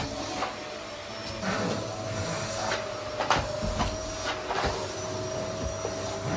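Household cleaning: a steady machine hum with repeated knocks and clatter of objects being handled and set down.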